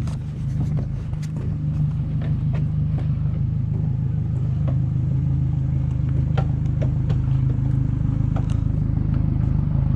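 An engine or motor running steadily with a low hum that grows slightly louder, with scattered light clicks and knocks over it.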